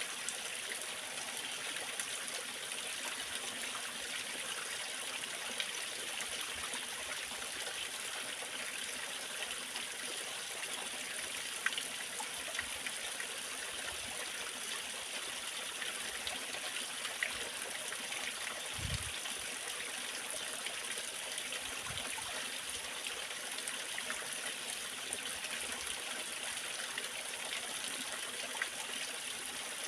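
Waterfall: water splashing and rushing in a steady, even hiss with no pauses.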